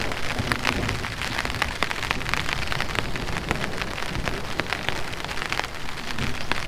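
Rain falling steadily, with many individual drops ticking sharply and irregularly on a nearby surface.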